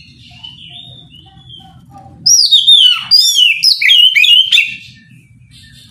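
Oriental magpie-robin (kacer) singing: a soft warble, then about two seconds in a loud burst of quick, swooping, downslurred whistled notes lasting about two and a half seconds.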